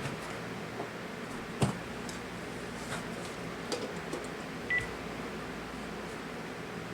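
A few light clicks and knocks of a cordless phone being handled, and one short high beep from the phone a little under five seconds in.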